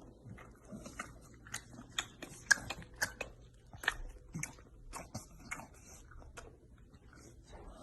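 An animal chewing something, with many sharp, irregular crunches and clicks.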